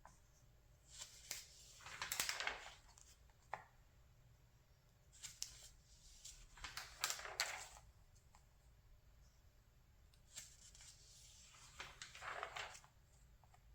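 Magazine pages being turned by hand: three papery swishes, each with small crinkles and taps.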